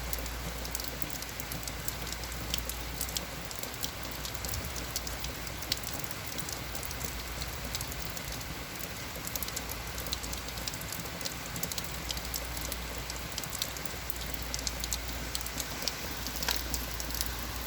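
Heavy rain falling steadily and pattering on surfaces, with a constant hiss and many small drop ticks.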